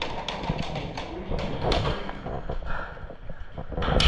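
Airsoft guns firing in an irregular string of sharp pops and taps, the loudest crack just before the end.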